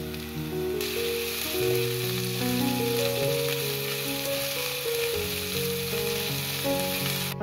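Diced potatoes and onion sizzling as they fry in olive oil in a pan, the sizzle setting in strongly about a second in, while a silicone spatula stirs them. Soft background piano music plays underneath.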